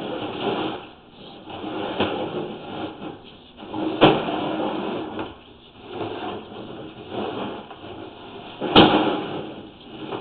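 Sewer inspection camera and its push cable being worked through a sewer lateral: irregular scraping and rubbing in uneven swells, with two sharp knocks, about four seconds in and near the end.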